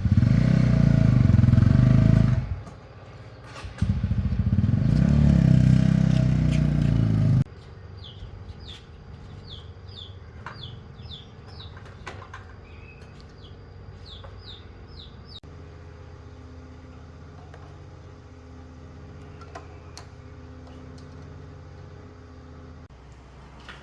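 A motorcycle engine running loudly in two stretches of a few seconds each, stopping suddenly; then a bird chirps a quick run of short falling notes over a quiet background.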